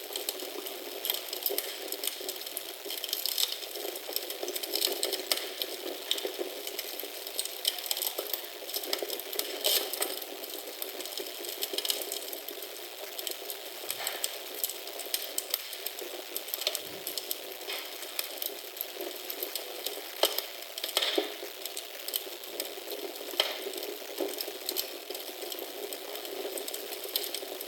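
Wood fire in a fireplace crackling steadily, a dense run of small snaps with an occasional louder pop.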